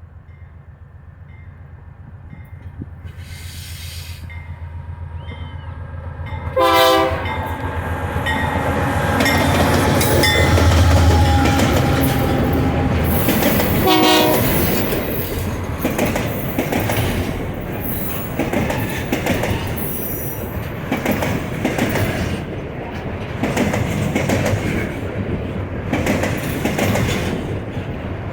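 GE AC44i diesel-electric locomotive approaching with a low, steady engine rumble, sounding two short horn blasts, about a quarter of the way in and again about halfway. It passes loudest shortly after the first blast, and the container wagons follow, rolling by with a continuous clickety-clack of wheels on rail joints.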